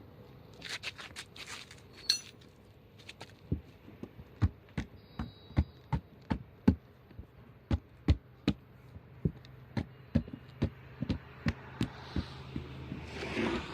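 A hammer striking repeatedly at a steady pace, about two to three blows a second, after some scraping and rustling at the start. The work is truck-tyre puncture repair.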